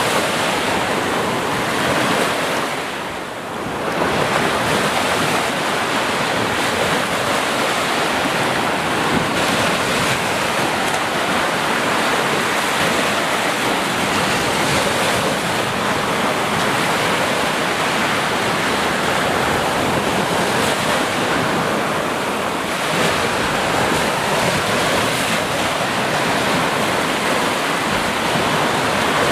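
Sea surf washing in a continuous rush of waves, with a brief lull about three seconds in before the wash swells back up.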